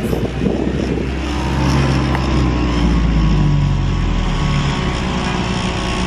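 Taxi running, heard from inside the cabin: steady engine and road rumble, with the engine note shifting up and down as it drives.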